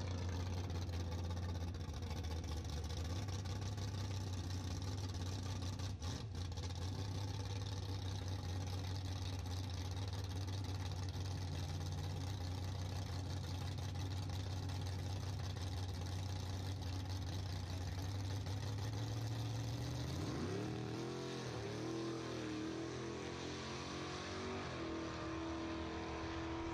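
Drag cars idling at the starting line, including a white Chevrolet Nova, with a steady deep engine note. About twenty seconds in, the revs swing up and down, then the engine pitch climbs in steps as a car accelerates through its gears.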